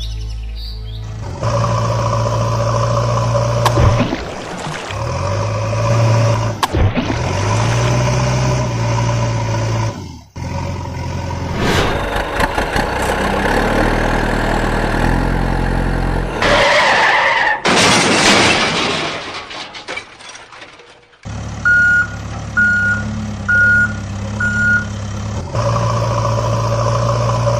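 A string of cartoon vehicle sound effects: heavy engines running and revving in clips that cut in and out abruptly, a loud hiss partway through, and four short reversing beeps.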